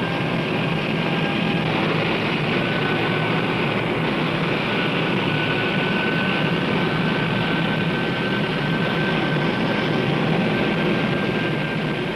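Aircraft engine running at a steady drone with a thin, constant high whine over it.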